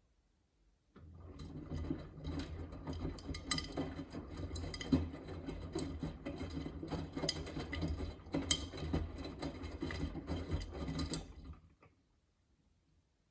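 Miele Navitronic W3985 washing machine drum turning during the final rinse: a low motor hum with water sloshing and laundry tumbling, starting about a second in and stopping suddenly near the end, one rotation of the rinse's turn-and-pause cycle.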